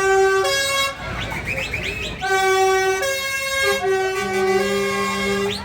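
A multi-note horn sounding a tune of held notes that change pitch step by step, with a lower note joining in during the second half and short rising squeals about a second and a half in and again near the end.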